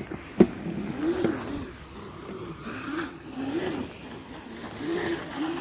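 Mini bike's small engine revving up and down again and again, its pitch rising and falling every second or so, with a sharp click about half a second in.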